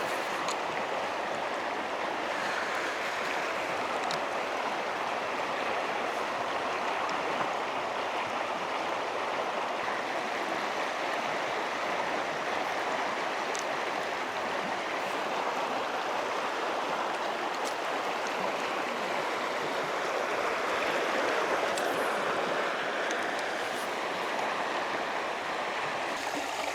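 Steady rush of a river's current flowing through a pool, with a few faint ticks now and then.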